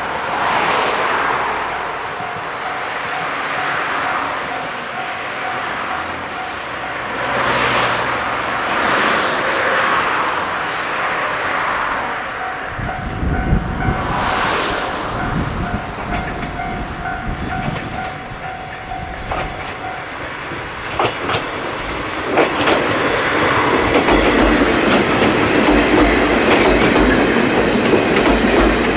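A level crossing bell rings with a steady repeating tone and stops about 20 s in. Meanwhile an Ichibata Electric Railway 3000 series electric train (ex-Nankai 21000 series) approaches and runs close past with a rising rumble, its wheels clicking over rail joints, and is loudest in the last few seconds.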